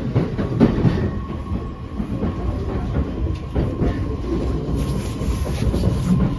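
Running noise inside a JR East E131-500 series train car: a steady rumble from the wheels and rails with irregular clacks over rail joints.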